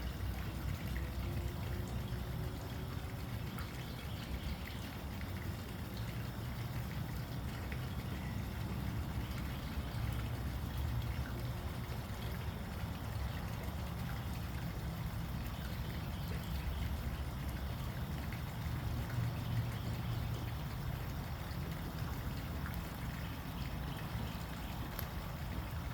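Steady trickling, running-water sound, even and unbroken, with a low rumble beneath it.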